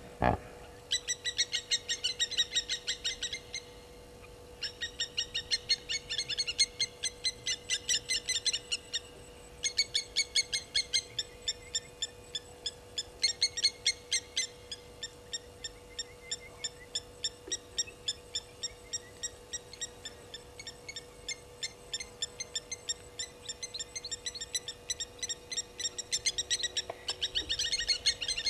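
Bird calling in rapid runs of high, repeated chirps, about ten a second, in bouts of a few seconds with short gaps. A faint steady hum sits underneath.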